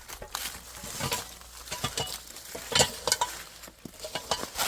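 Irregular clicks and knocks of objects being handled, loudest a little before three seconds in.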